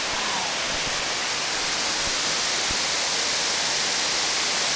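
Waterfall rushing steadily, a constant noisy roar of falling water.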